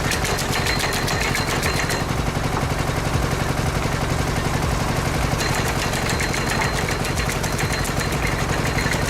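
An engine running steadily with a fast, even clatter.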